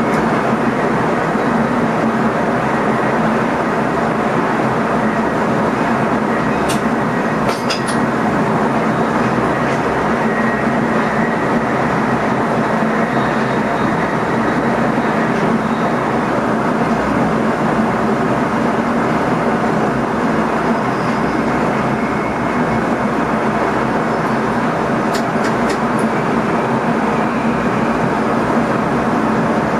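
Steady running noise inside the cab of an NS ICM electric multiple unit under way: wheels on rail with a steady low hum. A few short clicks come about seven seconds in and again near the end.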